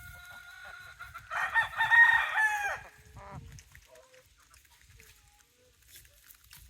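Rooster crowing once, a loud call of about a second and a half that drops in pitch at the end, followed by a few short, faint calls from the chickens.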